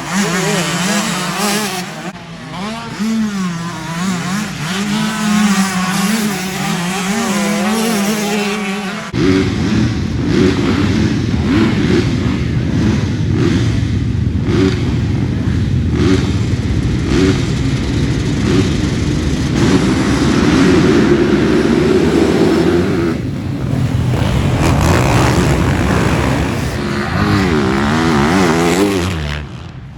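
Motocross dirt bikes racing, engines revving up and down through the gears. About nine seconds in, a loud, dense low rumble suddenly takes over, as from a bike close by; the rising and falling engine pitches come back near the end.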